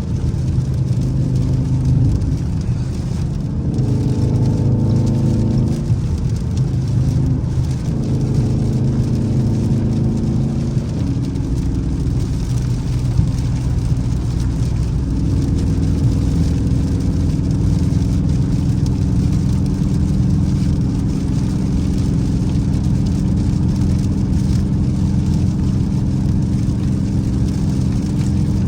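Dodge Charger R/T engine and road noise while driving, the engine note shifting in pitch several times in the first ten seconds or so, then holding steady at a cruise.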